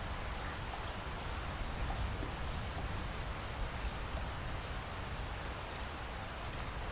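Waterfall: falling water rushing steadily, with a deep low rumble under it.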